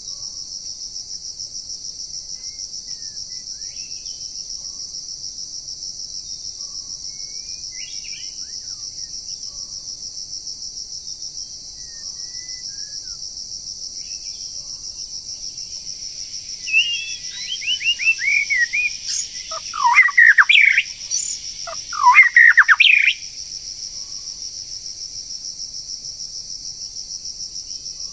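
A steady, rapidly pulsing drone of insects, cicadas or crickets, runs throughout. About two-thirds of the way in, a songbird sings loudly for about six seconds: a run of quick falling whistled notes, then two louder, fuller phrases.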